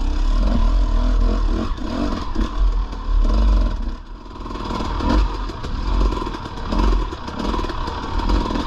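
Dirt bike engine running under changing throttle, easing off about four seconds in and picking up again, with rattling and clatter from the bike riding over rough trail.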